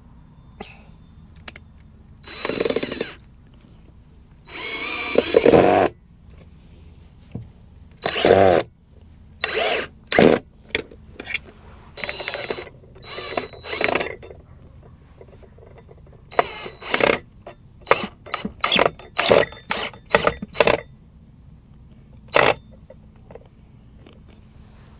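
Power drill run in short trigger bursts, the longer ones a second or so with the motor pitch rising and falling. Near the end comes a run of quick blips.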